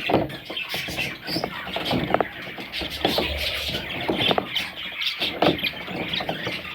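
Baby budgerigars (parrot chicks) calling in a rapid series of short, high calls.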